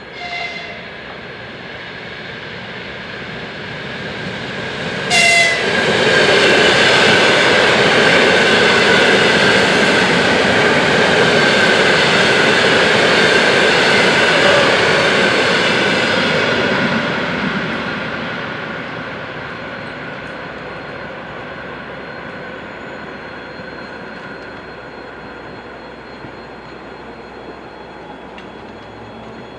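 EP2D electric multiple unit sounding two short horn blasts, one at the start and one about five seconds in. It then passes close by, its running noise loud for about ten seconds before fading away.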